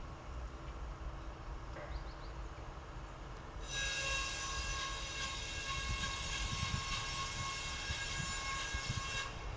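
Train horn sounding one long, steady blast of several high tones, starting about four seconds in and cutting off sharply shortly before the end, over a low rumble.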